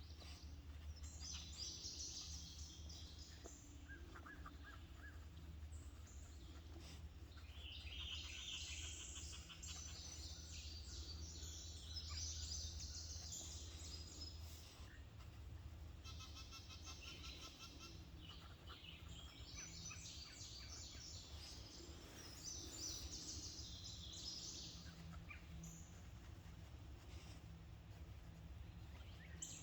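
Faint songbirds singing in repeated short, chirping phrases that come and go several times, over a steady low hum.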